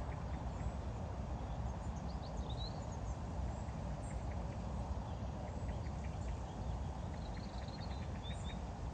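Outdoor ambience: a steady low rumble, typical of wind buffeting the microphone, with faint high bird chirps and twitters, mostly a couple of seconds in and again near the end.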